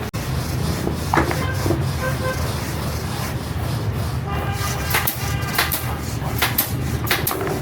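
Steady low rumble of passing traffic, with scattered knocks and clicks and a short horn toot about four and a half seconds in.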